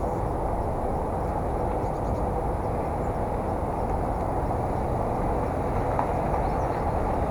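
Steady rumbling noise of a bicycle being ridden, tyres on the road and wind over an action camera's microphone, with no distinct events.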